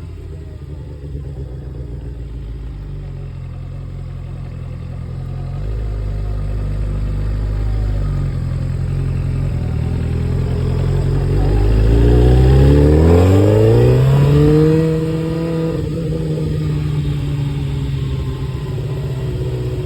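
Kawasaki Ninja sportbike engine running on a test run after a tune-up: a steady low note, then the pitch rises smoothly as it accelerates about eleven seconds in, getting louder, before holding a steady higher note.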